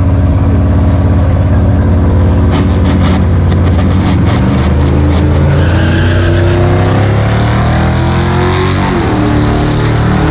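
Loud American V8 car engine running, a deep, steady exhaust note whose pitch rises and falls a little in the second half as it is revved.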